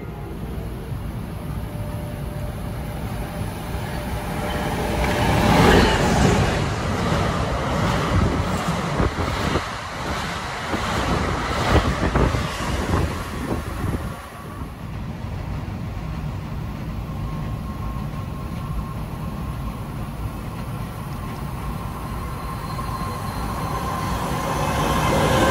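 Train running past on the Northeast Corridor. The rumble is loudest about five seconds in, with a run of clacks from the wheels over the rail joints that dies away about fourteen seconds in. After that the rumble is steadier and grows louder near the end, with a few thin steady tones.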